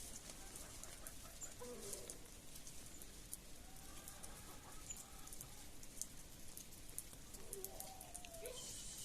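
Faint livestock calls, three short ones spread through the stretch, over scattered light ticking.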